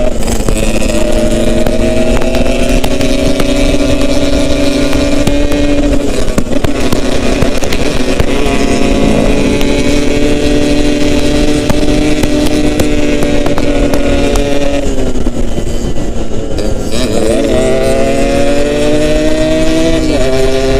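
Yamaha RX King's two-stroke single-cylinder engine running under way, its pitch mostly steady. About fifteen seconds in the pitch falls sharply, then climbs again as it revs back up.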